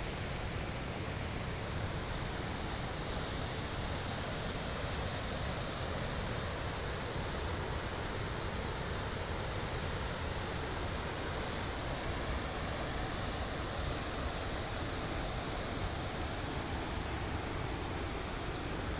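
Waterfall rushing steadily, a constant even noise of falling and tumbling water on the Pamba river.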